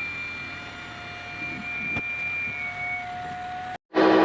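Electric inflation pump running steadily as it inflates an inflatable stand-up paddle board: a motor whine over rushing air. It cuts off suddenly near the end.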